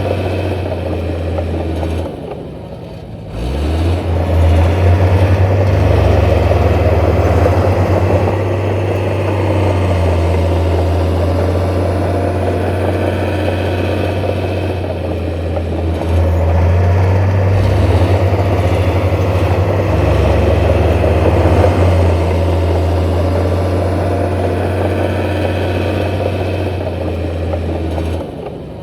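Heavy diesel engine of construction machinery running hard. Its note drops about two seconds in and revs back up, and drops again near the end.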